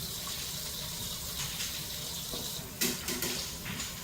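Running water, with a sharp clatter and a few smaller knocks about three seconds in.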